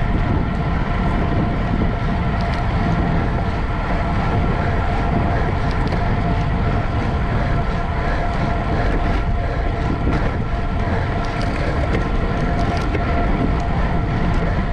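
Steady rush of wind buffeting the microphone with road and drivetrain noise from a racing bicycle moving at speed, a faint steady whine running through it.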